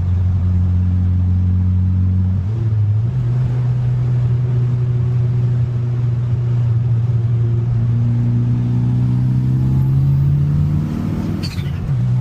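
Turbocharged four-cylinder engine of a 1995 Mitsubishi Eclipse GSX (4G63 with a big 16G turbo) pulling under boost, its pitch climbing steadily. Near the end it shifts, with a short falling hiss and a drop in revs.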